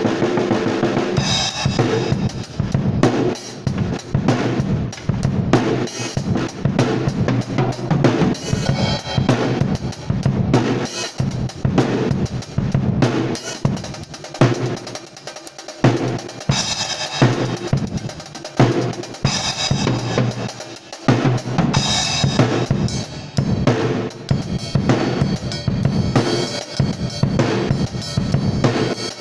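Drum kit played solo, with bass drum, snare and cymbal strikes in busy patterns, carrying on without a break.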